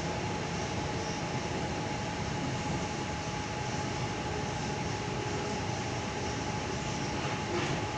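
Steady hum and rumble inside a Tangara electric train carriage, with a thin steady tone running through it.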